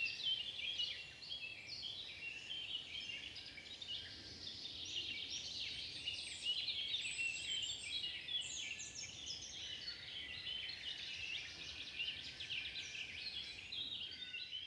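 Many small songbirds chirping and twittering at once, their short high calls overlapping continuously.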